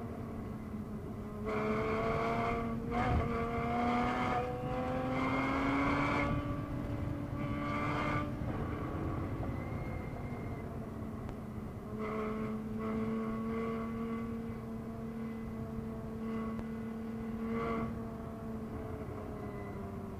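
Porsche Boxster S (981) 3.4-litre flat-six engine heard from inside the cabin, pulling in third gear: its note climbs steadily for several seconds under throttle, then drops away about eight seconds in as the driver lifts and brakes. It then holds a steady note through the next stretch and eases down near the end.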